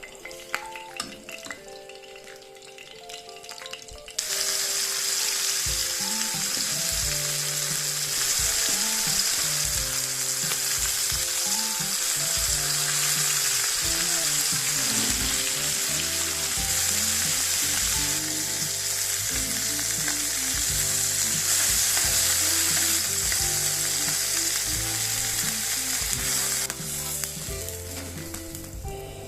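Food sizzling in hot oil in a pan: the frying hiss starts suddenly about four seconds in, runs loud and steady, and drops away near the end. Background music plays underneath.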